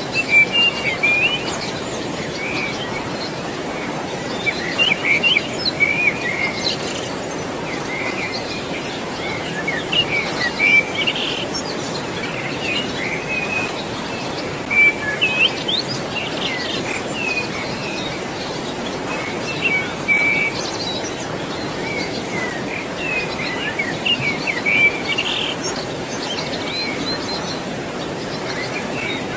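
Birds chirping in short clusters of calls every few seconds over the steady rush of flowing water.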